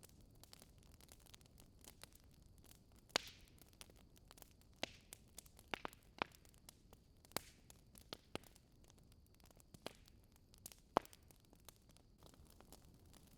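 Wood fire in a fireplace crackling: irregular sharp pops and snaps over a faint steady hiss, with a few louder snaps standing out.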